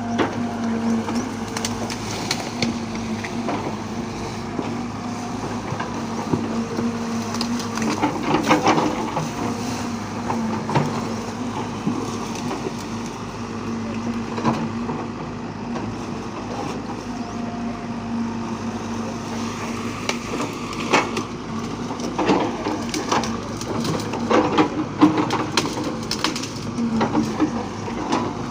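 Heavy diesel machine engine running steadily, with frequent irregular clanks and knocks of metal working parts.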